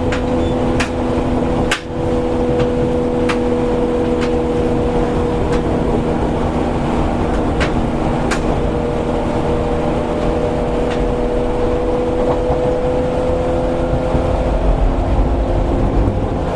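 Interior running sound of a Seibu 101 series electric train motor car at speed: a steady low traction-motor and gear hum with several held tones that sag slightly and rise again, over rolling noise. Sharp clicks of wheels passing rail joints come every second or two.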